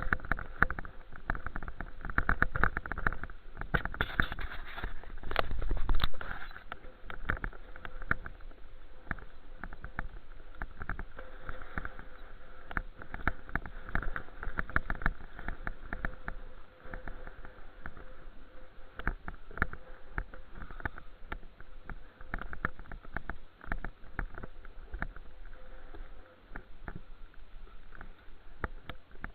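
Wind and riding noise on a camera carried on a bicycle, with frequent short knocks and rattles. It is louder during the first few seconds.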